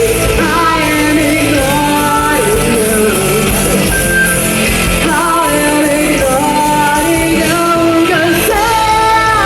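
Live rock band playing a song, with a lead singer holding long, wavering sung notes over the guitars, bass and drums.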